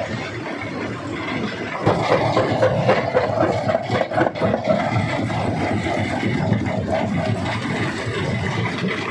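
Rock crusher running under load, rock cracking and grinding in it, with irregular sharp knocks; it gets louder about two seconds in.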